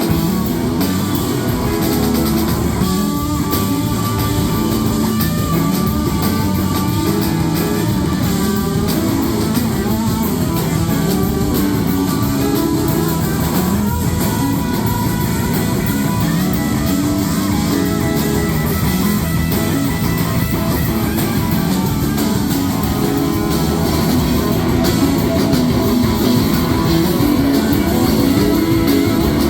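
Live rock band playing, guitar to the fore over bass and drums.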